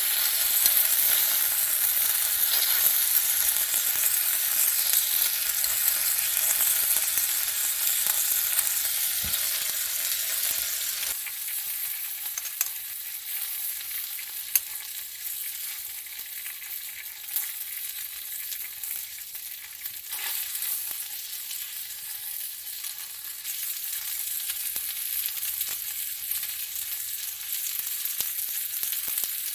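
Meat sizzling as it grills over a fire, a steady hiss. The hiss drops sharply in level about eleven seconds in, and a few sharp pops follow.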